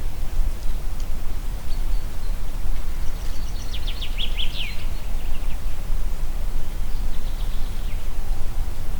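Wind through a forest, a steady low rush. A songbird sings a quick trill of rapid notes about three seconds in, and a fainter phrase follows near the eighth second.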